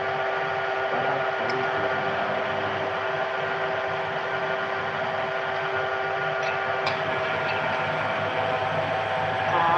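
A motor running steadily: an even mechanical hum with several fixed tones over a hiss, with a few faint clicks about two-thirds of the way through.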